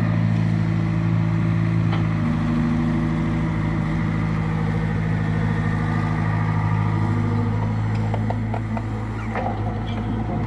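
Heavy earth-moving machine's engine running steadily at an even speed, with a few light knocks and clatters near the end.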